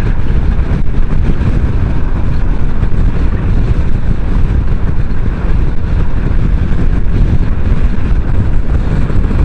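Kymco Xciting 500 maxi-scooter under way: steady wind rush on the microphone over engine and road noise while riding.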